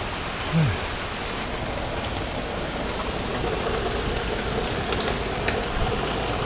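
Heavy rain falling steadily in a downpour, pattering on surfaces. A brief low sound falls in pitch about half a second in, and a few sharp ticks come near the end.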